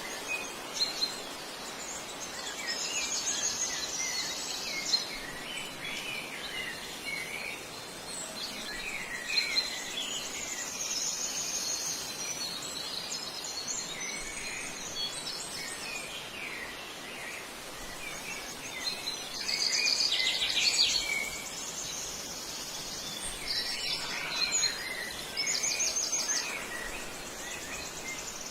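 Wild birds chirping and singing in short phrases over a steady outdoor hiss, with a louder stretch of rapid, buzzy trilling about two-thirds of the way through.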